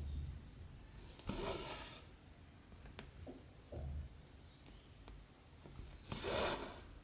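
Cotton embroidery thread being pulled through 14-count cross-stitch fabric: two rasping swishes, each about half a second long, about five seconds apart. A few small clicks and soft bumps come in between.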